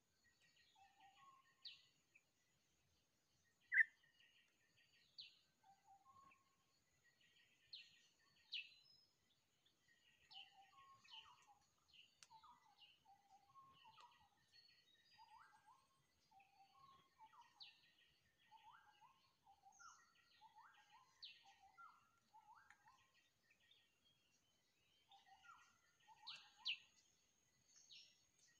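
Faint bird calls: a long run of short, hooked calls repeated about once a second, mixed with higher, thinner chirps. One brief, louder call stands out about four seconds in.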